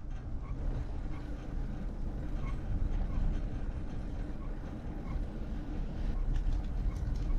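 Steady low rumble of wind buffeting the microphone and tyre noise while riding a bicycle, with faint light ticks now and then.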